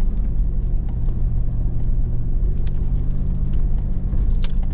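Hummer H2's V8 engine running steadily as it drives slowly along a dirt trail, heard from inside the cabin as a low, even rumble. A few faint scattered ticks sound over it.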